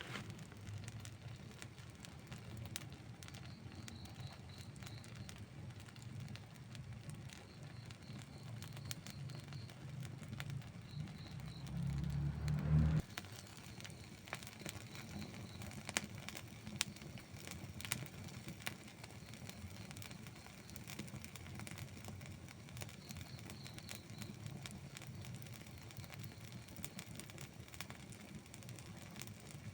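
Burning wood in an outdoor campfire crackling and popping, with scattered sharp pops. A low rumble underlies the first half, swells briefly and then cuts off suddenly about thirteen seconds in.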